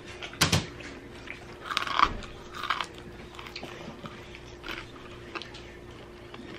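Close-up chewing and crunching of crispy fried chicken and homemade fries, with a few sharp crunches, the loudest about two seconds in.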